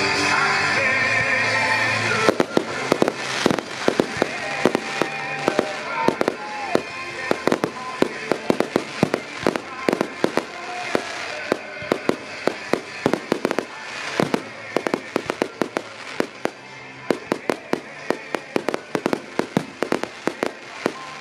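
Music, then from about two seconds in a fireworks finale: aerial firework shells bursting in a rapid string of sharp bangs, several a second, with music continuing underneath.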